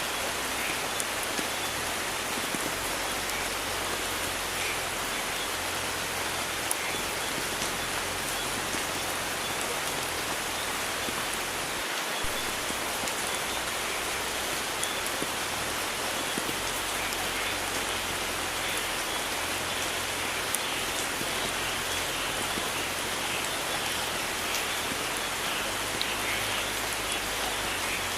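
Steady rain falling, an even wash of sound with scattered sharper drop clicks.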